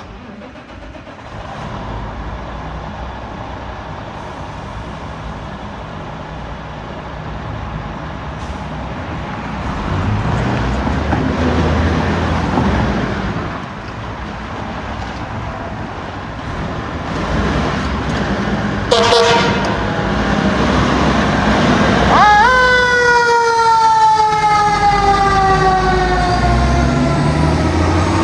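Fire truck responding with its engine and road noise growing louder. About two-thirds of the way in there is a short horn blast, then a siren that rises quickly and slowly winds down in pitch.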